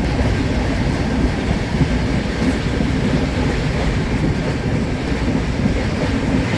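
Passenger train moving along the track, heard from inside the coach at an open window: a steady rumble of wheels on the rails.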